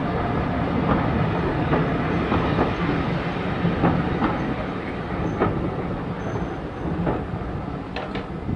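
Train wheels running along jointed track: a steady rumble with sharp clicks over the rail joints about once a second.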